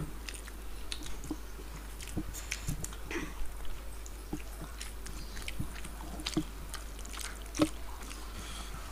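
Close-up eating sounds of two people eating rice and curry with their hands: chewing and wet mouth smacks, with scattered small clicks and one sharper click late on.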